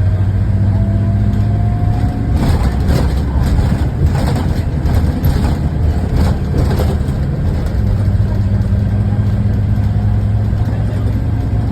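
Diesel engine of a Scania K280 bus running at a steady hum, with a stretch of irregular noise over it from about two and a half seconds in to about seven seconds.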